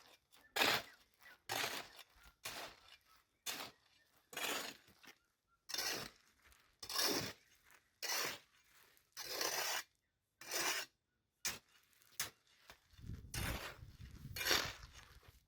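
A shovel scraping through gritty concrete mix in short repeated strokes, about one a second, as the concrete is mixed by hand. A low rumble joins near the end.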